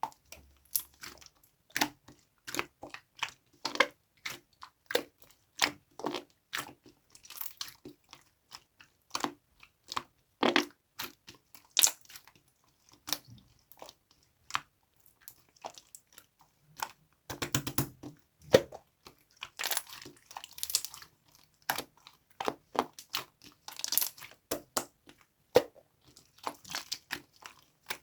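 Slime being squeezed, poked and stretched by hand, making a continuous run of irregular sharp clicks, pops and crackles, several a second.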